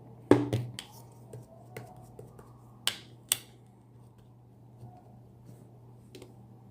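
Slime being pressed and squeezed by hand, giving sharp clicking pops: a quick cluster about a third of a second in, then two louder pops near the middle, over a low steady hum.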